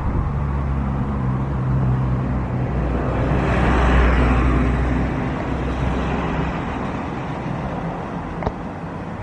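A motor vehicle passing by, its sound swelling to a peak about four seconds in and then fading away, over a steady low engine hum.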